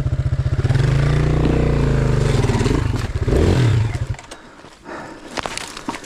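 Enduro motorcycle engine idling with an even pulse, then revved up and down for about three seconds before it stops about four seconds in. Light knocks and scraping follow.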